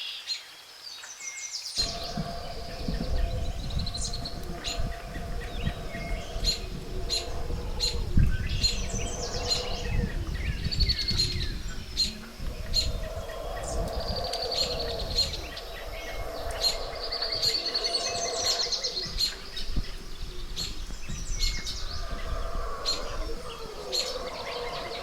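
Tropical jungle dawn chorus: many birds chirping and trilling over one another, with distant howler monkeys roaring in long wavering calls in several stretches. A low rumbling noise runs underneath from about two seconds in.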